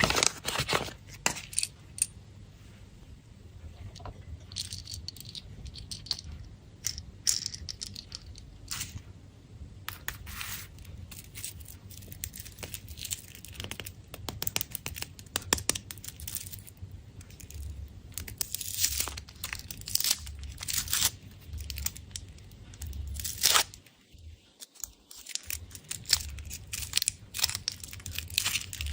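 Candy wrappers being torn open and crinkled by hand, a dense run of sharp crackles and rips with a short pause about 24 seconds in.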